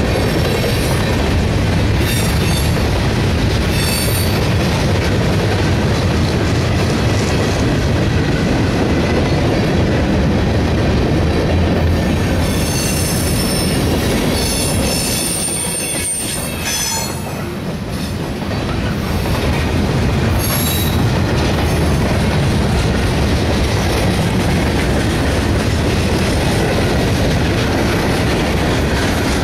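Freight cars rolling past on the near track: a steady rolling noise of steel wheels on rail, with high-pitched wheel flange squeals coming and going several times, the longest and loudest about halfway through.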